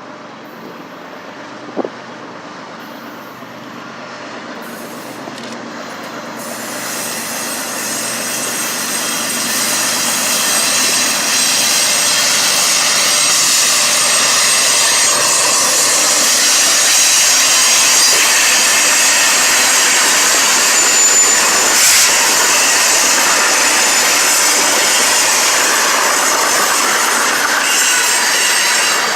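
A BNSF freight train rolling past close by, its wheels running on the rails. The noise builds over the first ten seconds or so, then holds steady and loud, with a thin high squeal from the wheels.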